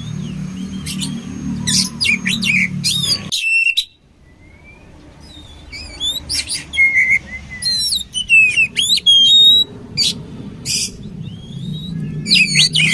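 Oriental magpie-robin (kacer) singing a varied song of quick whistled notes, trills and sliding phrases, over a low rumble. About three seconds in the sound cuts off abruptly, as at an edit, then fades back in and the song resumes.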